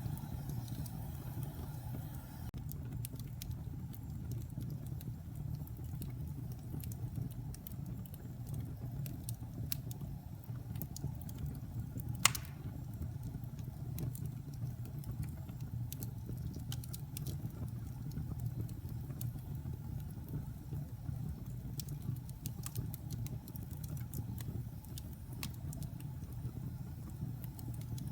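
Wood fire burning in a fireplace: a steady low rumble of flames with scattered small crackles, and one sharp, louder pop about 12 seconds in.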